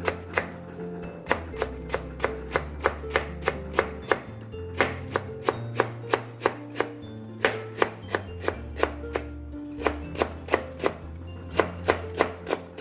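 Kitchen knife chopping radish on a cutting board: quick, even strokes about three to four a second, with a few short pauses, over background music.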